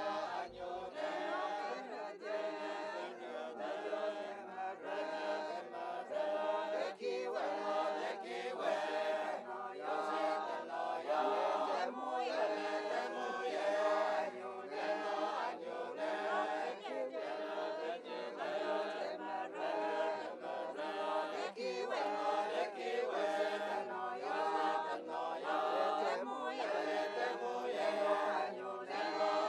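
Group of voices singing a slow chant-like choral passage without spoken words.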